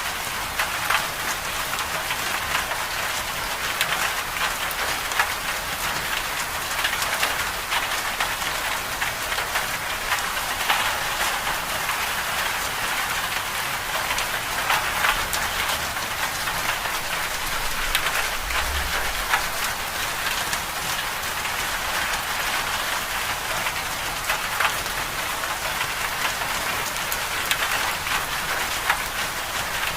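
Steady rain pattering on a hard surface, a dense hiss with many small ticks of individual drops.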